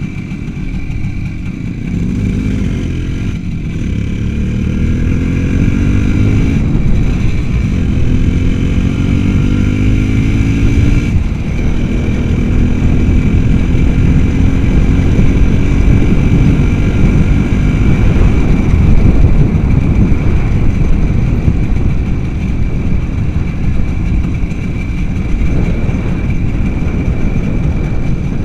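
Motorcycle engine pulling hard as the bike accelerates. Its pitch rises and drops back with gear changes about three times in the first eleven seconds, then it runs at a steady speed.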